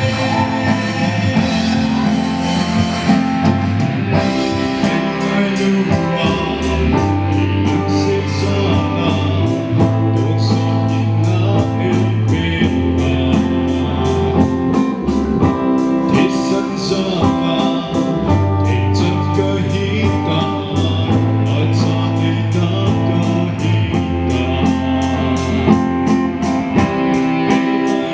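Live band music with a singer, guitar and bass playing a song; a steady ticking beat joins about five seconds in.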